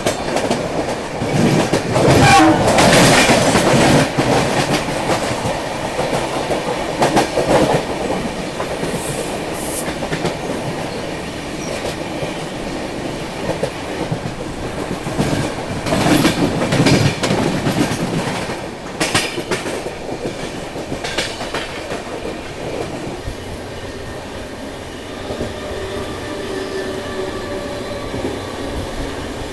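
Passenger train running at speed, heard from its open coach door: steady rumble and clatter of wheels over the rails. Two louder rushes, about 2 to 4 seconds in and again about 16 to 18 seconds in, as suburban electric local trains pass close on the next track. A steady pitched tone comes in near the end.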